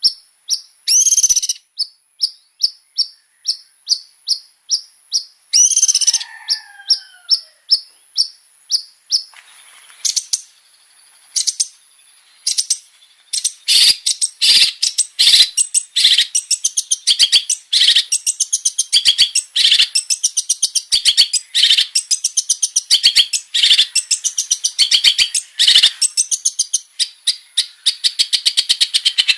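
Long-tailed shrike (cendet) singing. It starts with a run of short repeated high notes, about two a second, then about halfway through breaks into a fast, varied, unbroken stream of song.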